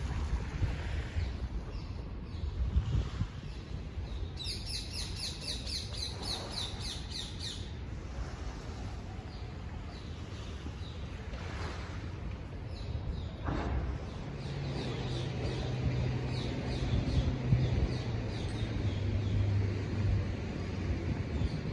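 A small bird calls a quick run of high, evenly spaced chirps, about four a second, for some three seconds, with fainter chirps later on. Underneath is a steady low rumble, and a low hum joins about two-thirds of the way through.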